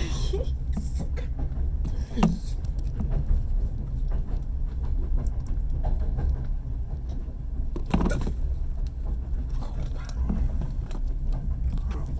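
Steady low rumble of a passenger train in motion heard from inside the carriage, with faint scattered knocks and rattles.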